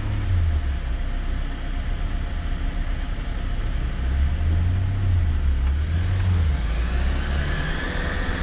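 Jeep Wrangler engine running under load as it crawls up a muddy forest trail, its low rumble swelling and easing. A whine rises toward the end.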